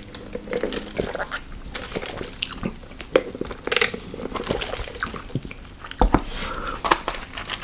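A person biting and chewing crunchy fried fast food close to the microphone, with irregular crunches and mouth clicks.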